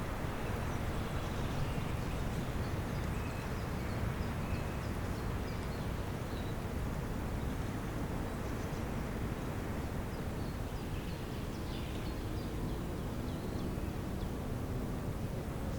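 Outdoor spring ambience: faint, scattered high bird chirps over a steady low rumbling background.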